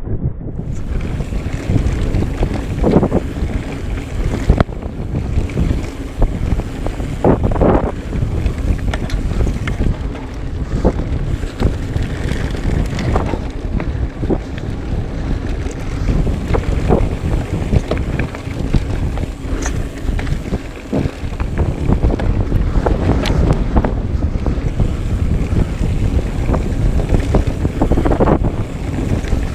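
Wind buffeting the microphone of a camera riding on a moving mountain bike: a steady, loud low rumble. Several sharp knocks and rattles from the bike over rough trail stand out from it.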